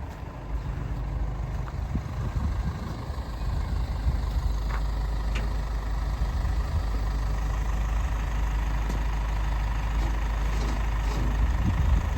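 Hino 195 box truck's 5.0-litre diesel engine idling with a steady low rumble, growing a little louder over the first few seconds.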